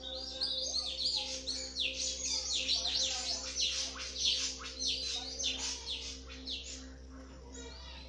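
Birds chattering in a fast, dense run of high, quick downward-sliding notes, several a second, that thin out near the end.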